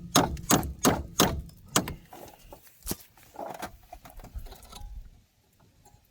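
Hammer blows on metal, about three a second for five or six strikes, then one more strike and some softer knocks, hitting a stuck suspension part to drive it free.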